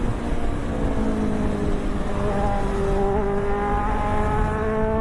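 Superbike engine running under way, its note sinking slightly and then climbing again as the revs rise near the end, over a heavy low rumble.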